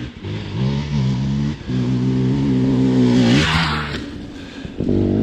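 Dirt bike engine revving hard under load as it runs up to a jump. The pitch climbs in steps as it shifts up, holds high, then drops off about three and a half seconds in with a brief rush of noise, and it picks up again near the end.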